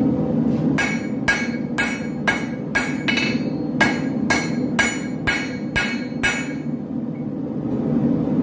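Forging hammer striking a sword blade on an anvil, about a dozen ringing blows at about two a second, with a short pause near the middle; the blows stop about two-thirds of the way through. A steady low hum runs underneath.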